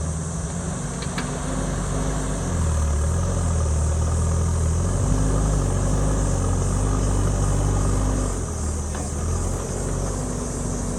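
Diesel engine of a JCB backhoe loader running as it works, its pitch stepping up and down with the load, with a couple of faint clicks.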